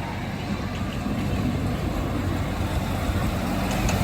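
Amusement-park train running, with a steady low engine rumble that grows slightly louder near the end.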